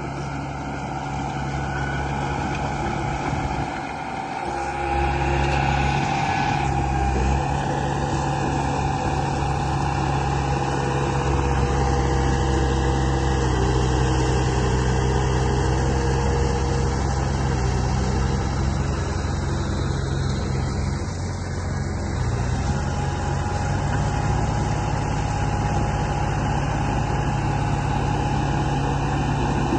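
Construction machine engine running steadily, growing louder about five seconds in and holding there.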